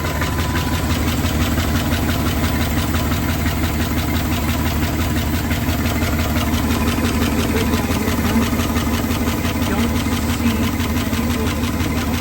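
Dodge W200 pickup's 318 V8 idling steadily, running after a new oil pressure sensor has been fitted.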